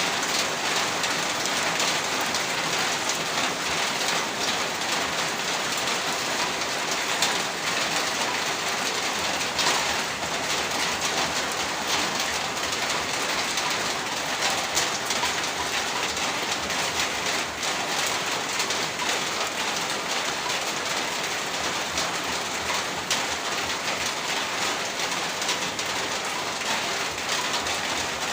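Heavy rain falling steadily, a dense even hiss with many fine drop impacts on surfaces.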